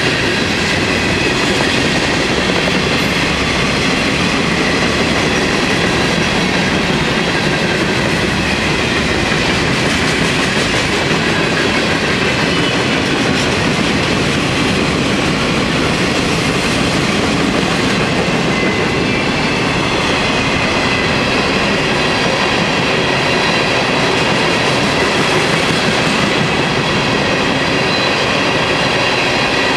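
Freight cars of a long train rolling past at steady speed: continuous noise of steel wheels running on the rails, with faint high tones above it.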